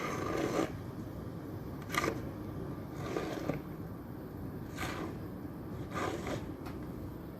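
Handling noise: short rustles and scrapes of clothing or fingers against the microphone, about six of them, over a steady low rumble.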